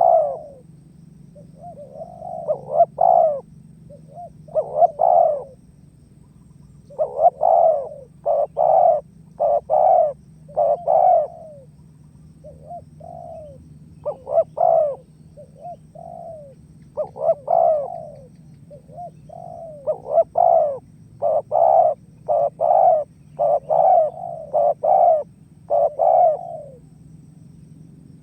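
Spotted dove (tekukur) cooing, the 'menguku' call used to lure rival doves: short coo notes repeated in phrases of several notes with brief pauses between, over a faint steady low hum.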